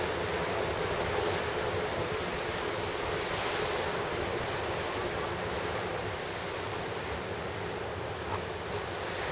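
Pacific Ocean surf crashing in a steady, continuous rush, with wind noise on the microphone.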